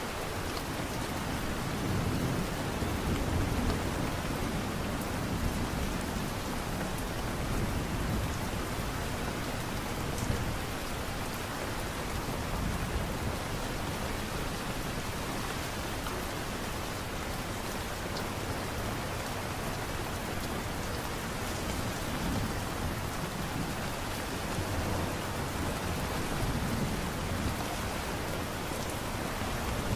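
Steady light rain falling, with soft low rumbles swelling now and then.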